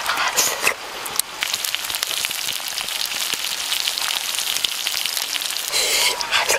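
Chicken intestines and egg yolks frying in fat on a hot stone: a dense, even sizzle with fine crackles, starting about a second in.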